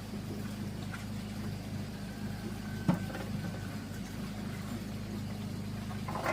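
A small engine running steadily with a low, even hum, and a single sharp click about three seconds in.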